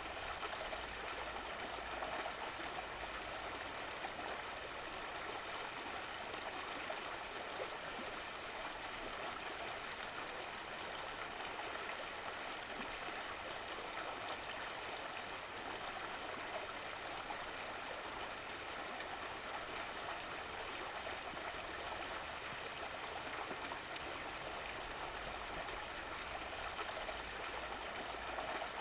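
Stream of running water flowing and trickling in a steady, even rush.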